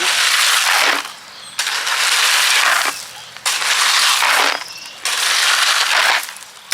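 A steel shovel scooping into a pile of rock, four gritty scrapes about a second long with short pauses between them.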